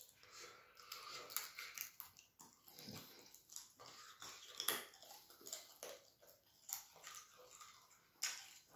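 A person chewing fufu and chicken close to the microphone: irregular soft smacks and clicks of the mouth and lips.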